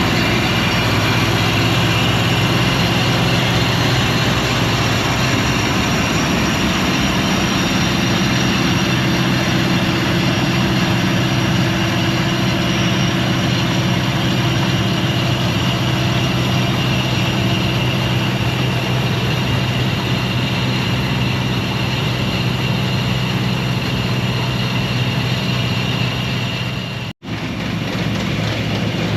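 Combine harvester engine and threshing machinery running steadily under load, a low hum with a constant high whine over it. The sound cuts out for an instant near the end.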